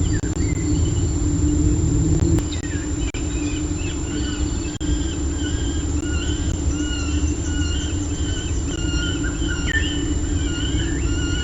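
A bird chirping over and over in short notes, some sliding in pitch, over a steady low rumble.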